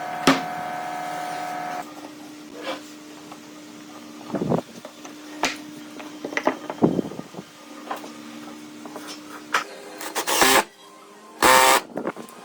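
Woodworking shop sounds: a steady machine hum with scattered sharp knocks, then two loud noisy bursts about ten and eleven and a half seconds in.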